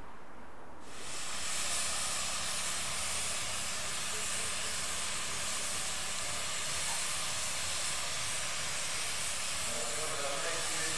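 Steady hiss of steam escaping from a steam engine, starting abruptly about a second in and holding steady over a low rumble.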